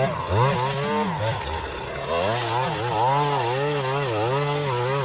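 Chainsaw running and cutting wood, its engine pitch dipping and rising again and again as the load changes.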